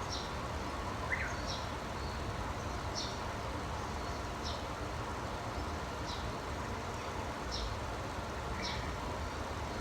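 Small birds chirping outdoors: short, high, downward-sliding chirps about once a second, with a lower chirp about a second in and another near the end. Underneath runs a steady hiss and low rumble of background noise.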